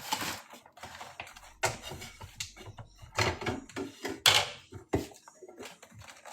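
Irregular clicks and knocks of packaged food and containers being handled and set down on a shelf.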